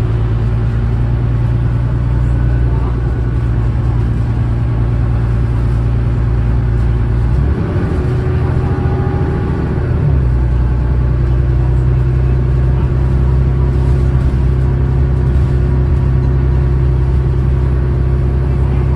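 Cummins ISLe six-cylinder diesel engine of an Alexander Dennis Enviro500 double-decker bus, heard on board, running at a steady speed with a deep drone. From about seven to ten seconds in the drone drops away and shifts, then settles back to a steady note.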